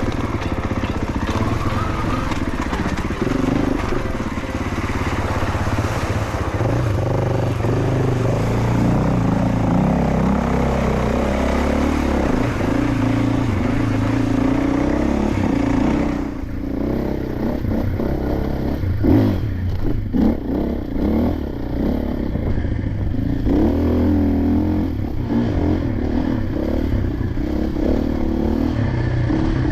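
Dirt bike engine running and revving while ridden off-road, its pitch stepping up and down with throttle and gear changes. About halfway through the sound changes, and irregular clatter and knocks from the bike over rough ground come through along with the engine.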